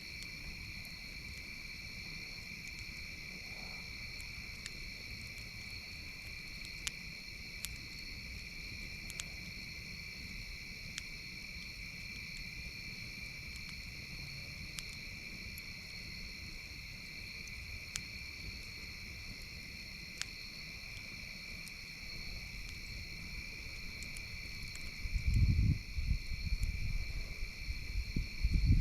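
A steady, unbroken insect chorus fills the background, with scattered sharp pops and crackles from a campfire. A few loud, low rumbling bursts come in near the end.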